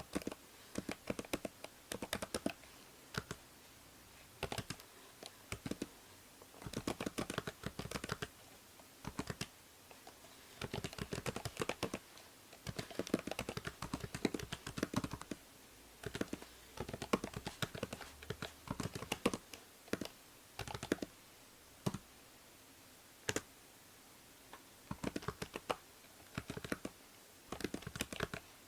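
Computer keyboard typing in quick runs of keystrokes broken by short pauses, over a faint steady hiss from the binaural microphone.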